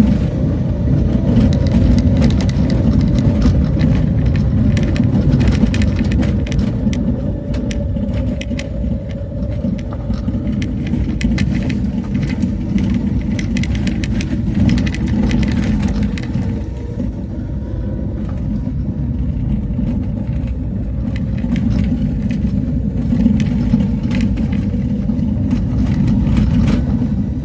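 Motor vehicle driving along a road, a steady low rumble of engine and tyres with frequent short rattles and knocks.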